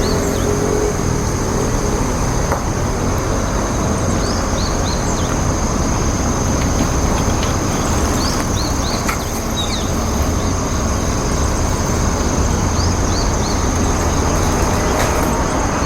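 Steady road traffic noise, with a thin high tone held throughout and short high bird chirps in little groups of two or three every few seconds.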